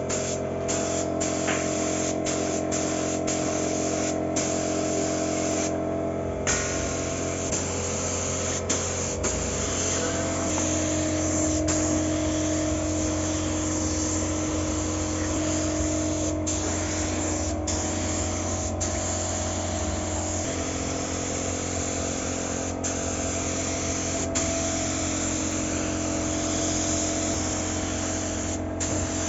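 Paint spray hissing steadily over a motor's hum, with a short break in the hiss about six seconds in.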